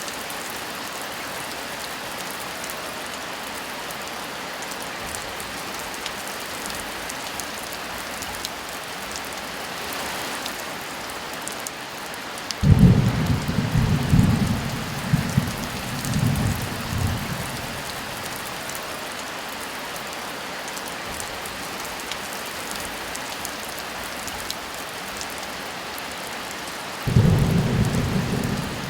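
Heavy rain falling as a steady hiss, with thunder breaking in twice: a sudden low rumble a little before halfway that rolls on with several swells for about five seconds, and another starting near the end.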